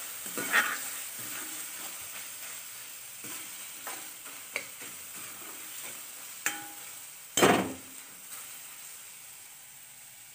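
Chopped onion and tomato sizzling in hot oil in a kadhai while a metal ladle stirs and scrapes through them: the tomatoes being sautéed into the onions. A few sharp clinks of the ladle against the pan stand out, the loudest about seven seconds in, and the frying grows quieter near the end.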